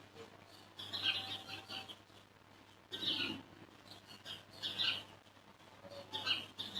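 Birds chirping in short clusters every second or two, over a faint steady low hum.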